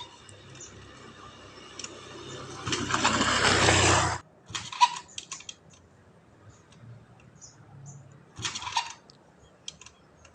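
Scattered clicks and clinks of hand tools and metal engine parts being handled. About three seconds in comes a loud, even rush of noise lasting about a second and a half, whose source is not shown.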